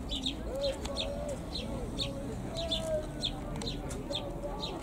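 Birds calling: short high chirps repeat two or three times a second over lower, bending calls.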